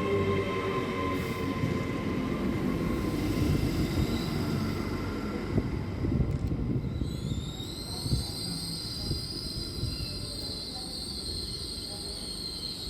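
A train moving through a station with a steady rumble. About seven seconds in, a high-pitched squeal sets in, rises slightly, and holds.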